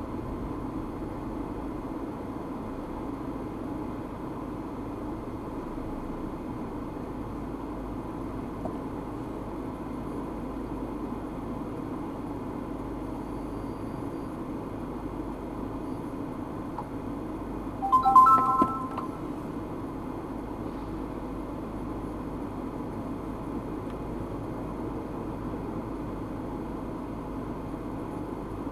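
Steady road and engine noise of a car driving, heard from inside the cabin through a dashcam, with a single short electronic beep of a few tones together about two-thirds of the way through.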